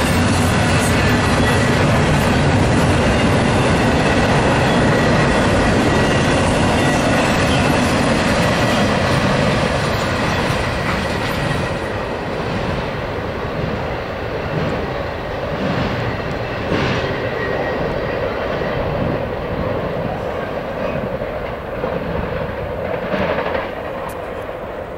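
Double-stack intermodal freight train rolling past close by: a steady rumble and clatter of steel wheels on rail, with a thin steady high tone above it. It grows quieter after about ten seconds, leaving scattered wheel clicks as the cars go by.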